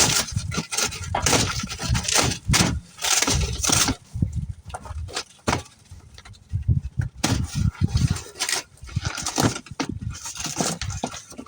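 Irregular knocks, scrapes and rattles of a motorcycle's shipping box being pried open and unpacked by hand, with bursts of low rumble from handling close to the microphone.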